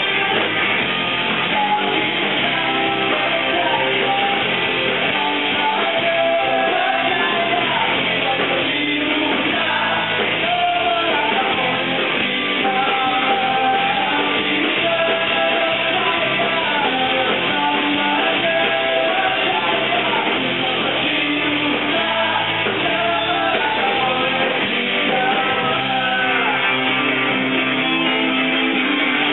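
Rock band playing live: guitars with a singer carrying the melody.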